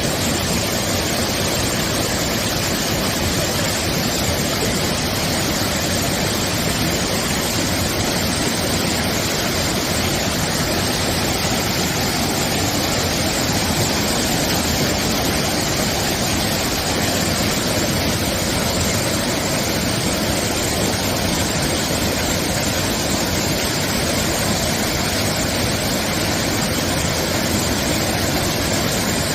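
Mountain stream of clear water flowing over rocks, a steady, even rush of water.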